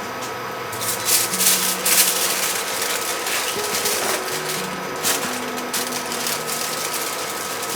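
Crackly rustling and rubbing as the flattened, cheese-stuffed chicken is folded and rolled up in its wrapping by hand, with a faint low hum underneath.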